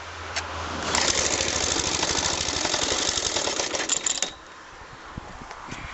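Suffolk Super Colt mower's engine firing and running fast for about three seconds, then cutting out suddenly; it will not keep running.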